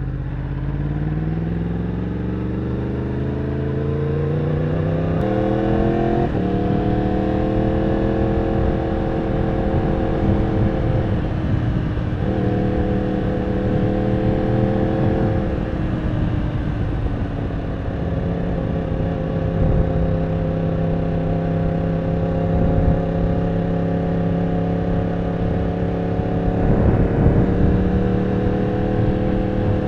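Yamaha R1 sport bike's inline-four engine accelerating through the gears: the pitch rises for about five seconds, drops at an upshift, rises briefly and drops again at a second shift, then holds a steady cruising note with a short dip about twelve seconds in.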